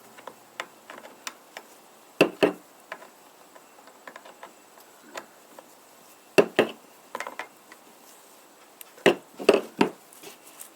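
Sharp metallic clicks and knocks from hand tools and the chainsaw's bar and chain being handled while the chain is tensioned, with three louder clusters of two or three knocks each and light ticks between.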